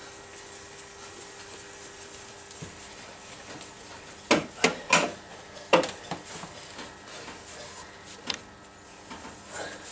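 Handling knocks as a car's road wheel is fitted back onto the hub: a quick cluster of sharp clunks about four to six seconds in and one more near the end.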